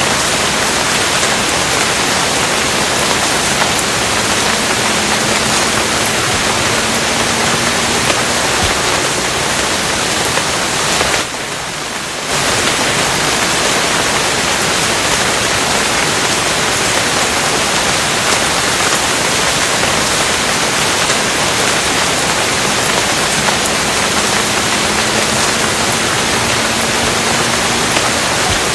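Steady, heavy rain heard as a dense, even hiss, dipping briefly about eleven seconds in.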